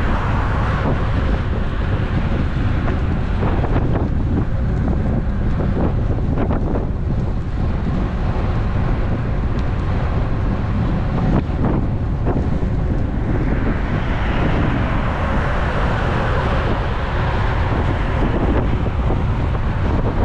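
Wind buffeting the action camera's microphone on a moving road bike, over a steady low rumble from the ride, with a few short ticks in the middle. About two-thirds of the way through, a brighter hiss rises over it.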